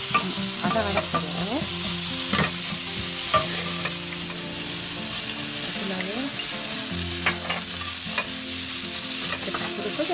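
Cucumber slices sizzling in hot oil in a frying pan as they are stir-fried until they turn bright green, with a few sharp clicks of the wooden spoon and chopsticks against the pan.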